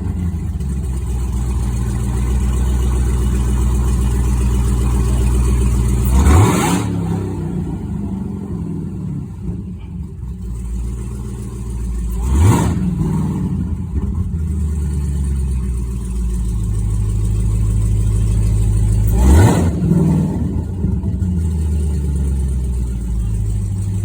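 Dodge SRT Hellcat's supercharged V8 idling, blipped hard three times, about six seconds apart; each rev climbs quickly and drops straight back to idle.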